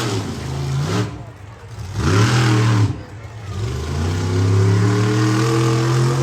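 Monster truck engine revving hard in repeated bursts: a short blip, a stronger rev about two seconds in, then a long held rev from about four seconds in, as the truck tries to climb a ramp.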